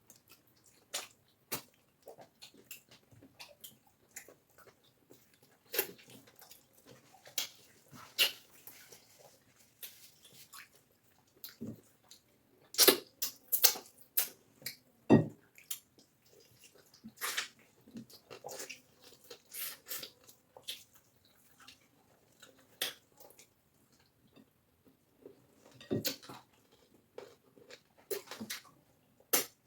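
Close-up eating sounds: wet chewing and lip smacks from people eating cassava fufu with egusi soup, coming as scattered short clicks and smacks.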